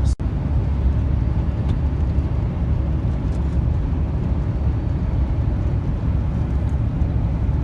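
Steady low rumble of a truck's engine and road noise, heard from inside the cab while driving. The sound cuts out for a moment just after the start, then carries on unchanged.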